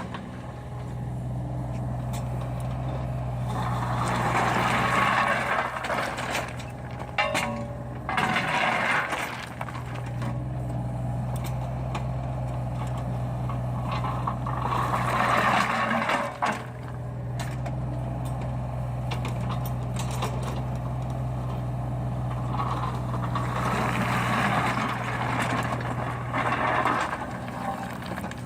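Deere compact excavator's diesel engine running steadily, with four louder spells of hissing, rushing noise as the machine works.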